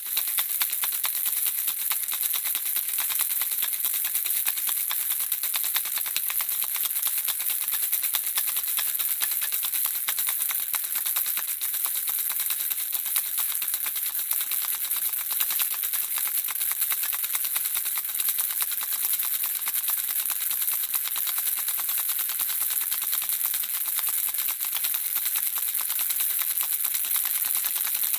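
Baby's handheld rattle shaken continuously, the small pieces inside clicking in a fast, dense, even patter.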